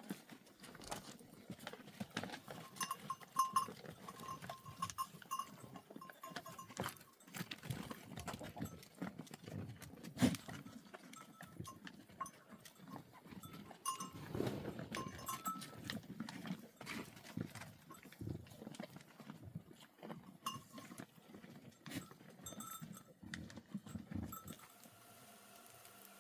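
Small bells on a flock of sheep and goats clinking irregularly as the animals move, with scattered clicks and knocks.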